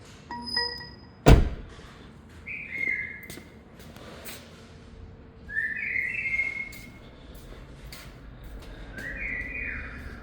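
A single loud thump a little over a second in, then three short phrases of bird-like whistled notes a few seconds apart.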